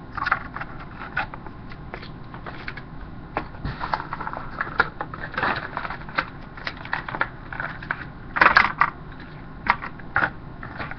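Plastic blister packaging of a die-cast toy car being opened and handled: irregular crackles and clicks, with the loudest burst about eight and a half seconds in.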